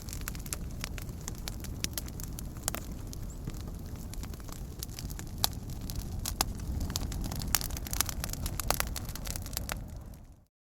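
Fire crackling, with frequent sharp pops over a steady low rumble. Near the end it fades out and drops to silence for about half a second.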